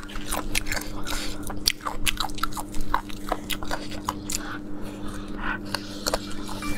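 Close-up chewing and biting of crispy air-fried chicken drumstick bones: a quick, uneven run of sharp crunches throughout. A steady low hum runs underneath.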